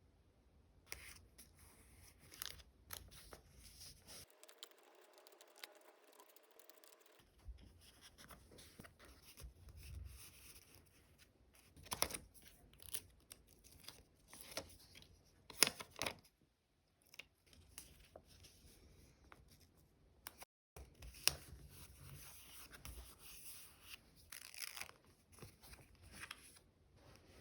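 Stickers being peeled off their backing sheets, with paper and plastic packaging rustling and crinkling during hands-on diary decorating. Several sharp clicks stand out as the loudest sounds.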